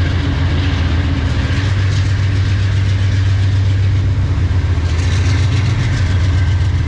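Diesel freight locomotive engine running with a steady low drone. From about five seconds in, a faint metallic rattle of the train joins it.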